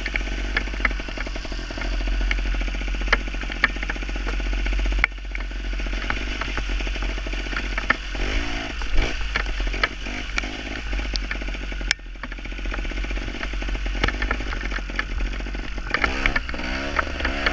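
Gas Gas TXT two-stroke trials motorcycle engine running under a rider, revving up and down, with a rising-and-falling burst of revs about eight seconds in and again near the end. Scattered sharp ticks and a steady low rumble run beneath it.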